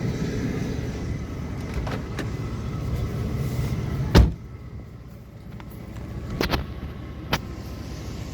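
A car's low steady running rumble, then one loud door slam about four seconds in, after which the rumble is much quieter. A couple of light clicks follow.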